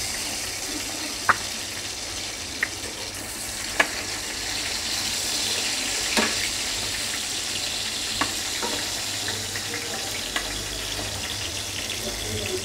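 Salt-stuffed green chillies frying in hot oil in a stainless steel pan: a steady sizzle with a sharp pop or click every second or two, the chillies stirred with a spatula.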